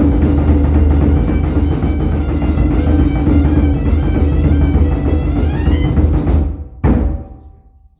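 Music with heavy drumming and a held tone underneath, which stops abruptly about six and a half seconds in; one last drum stroke follows and rings out.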